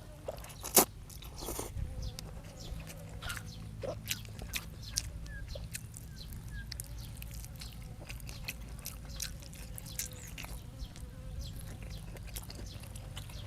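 Close-miked eating: chewing and crunching with scattered small clicks, and one sharp click under a second in, over a low steady hum.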